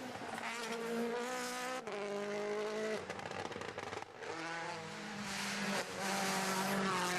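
Rally car engine running hard at high revs, its note breaking and dropping several times as it shifts gear.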